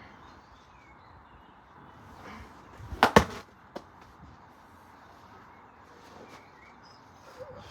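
A sharp double knock, two hard hits in quick succession about three seconds in, followed by a light tap; faint bird chirps in the background.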